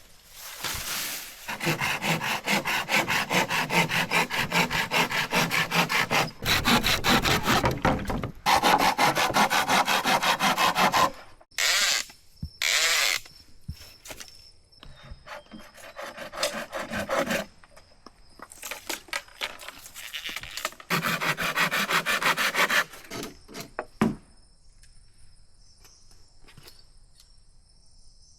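Hand sawing through bamboo: fast back-and-forth rasping strokes in long bouts with short pauses between them, thinning to a few scattered ticks near the end.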